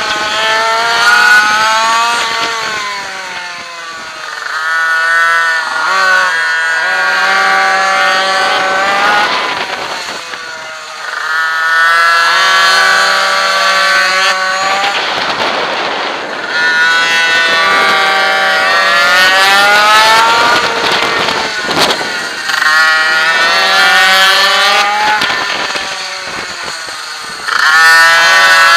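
Onboard sound of a minimoto racing pocket bike's small two-stroke engine at full throttle. Its pitch climbs long and high along each straight, then drops off as the rider brakes for each corner, about five or six times over.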